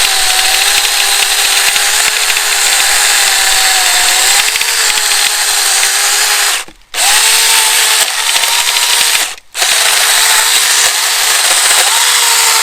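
Tomyvic 6-inch cordless electric mini chainsaw cutting through a thick birch log, its motor whine wavering in pitch under load. Twice it stops for about half a second and starts again.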